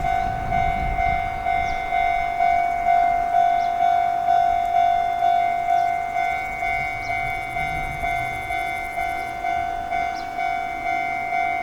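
Japanese railway level-crossing alarm ringing: a single electronic bell tone struck over and over, a little more than twice a second, with a faint low rumble underneath.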